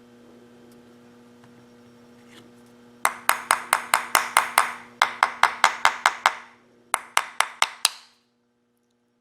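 Faint steady hum, then three quick runs of sharp ringing taps, about five a second, starting about three seconds in.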